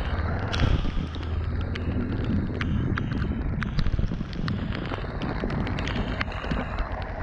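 Kawasaki Ninja 400's parallel-twin engine running steadily under wind noise on the microphone, with many sharp, irregular ticks of raindrops striking the camera.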